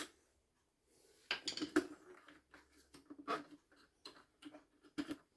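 Scattered light clicks and short rattles of hard plastic parts and a screwdriver being handled while a vacuum cleaner's casing is taken apart, with a small cluster of knocks about a second and a half in.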